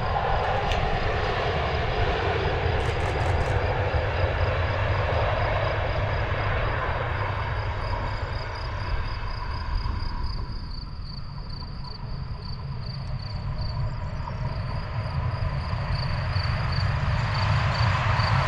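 A train running past on the line: a continuous rumble of wheels and running gear that eases off for a few seconds in the middle and builds again near the end.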